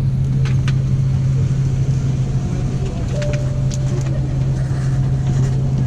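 Steady low drone of an Airbus A330-300 aircraft cabin, with a few light clicks over it.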